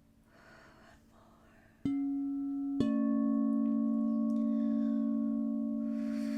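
Two singing bowls struck about a second apart, about two seconds in. Each rings on with a steady low hum and a few fainter higher overtones, the two blending and slowly fading.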